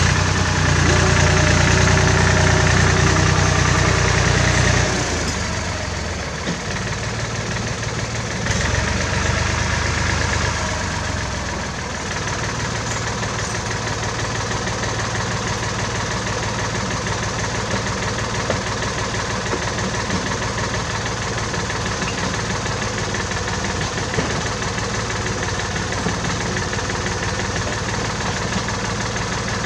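1967 David Brown tractor's engine running, louder for the first five seconds and again for a few seconds from about eight seconds in, then settling to a steady idle.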